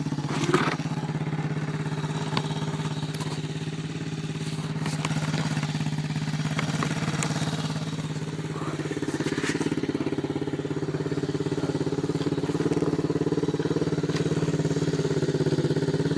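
Dirt bike engine idling steadily after a hard start, its pitch and level rising a little in the second half, with a few short clicks.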